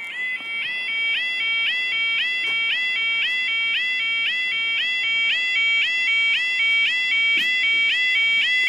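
Railway level crossing warning alarm sounding: a loud, warbling electronic tone that steps up and down in pitch about three times a second, getting louder in the first second. It warns road users that the barriers are closing for an approaching train.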